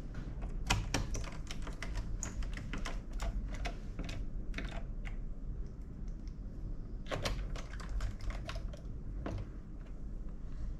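Laptop keyboard keys clicking in quick, irregular runs, two bursts of key presses with a short pause between.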